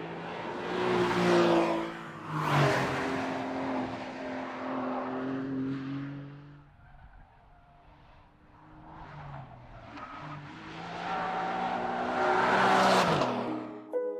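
2025 Porsche 911 Carrera GTS's 3.6-litre flat-six engine and exhaust as the car drives by, the engine note rising and falling. It is loudest about a second or two in and again near the end, with a quieter stretch in the middle.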